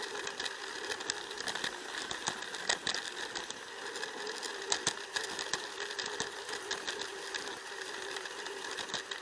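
Plarail toy train's small battery motor and plastic gears whirring steadily as it runs along the plastic track, with irregular clicks and rattles from the wheels on the rails.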